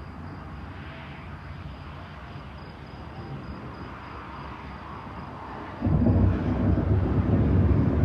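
Thunder: a low, distant rumble, then about six seconds in a sudden, much louder peal that rolls on in deep rumbling.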